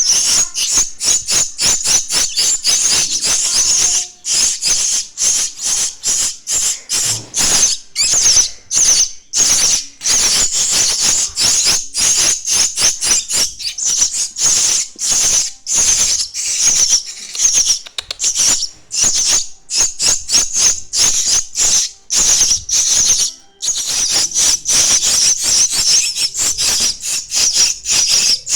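Starling chicks begging loudly for food, a rapid, harsh, hissing chatter of short raspy calls that runs on with only brief pauses.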